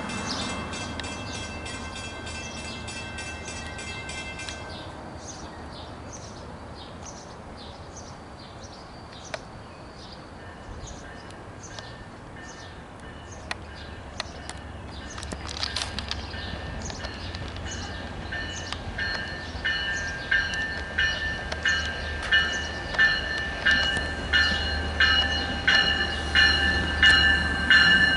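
Long Island Rail Road C3 bilevel train approaching and entering the station cab car first, its low rumble growing with a bell ringing in steady strokes, about one and a half a second, that get steadily louder as it nears. A faster-ticking bell rings in the first few seconds and stops.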